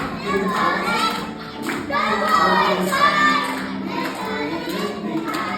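A group of young children singing together in English over backing music.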